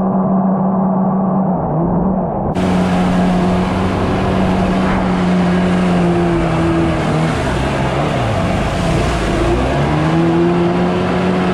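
Stand-up jet ski engine running at high speed. It drops off and picks back up a few times.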